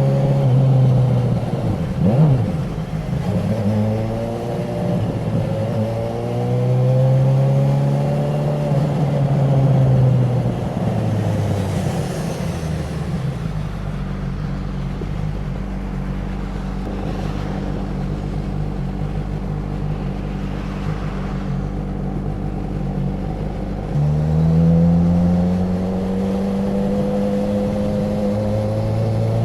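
Honda CB1000R inline-four engine and exhaust from the rider's seat, revs rising and falling through the gears, then settling to a steady low-rev run for about ten seconds before climbing again near the end as the bike pulls away.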